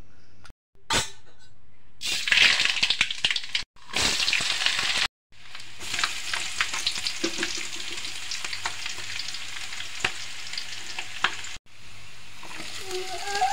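Hot oil sizzling in a pan as chopped garlic and coconut pieces fry, with many sharp crackles through the hiss. The sound stops dead and resumes a few times.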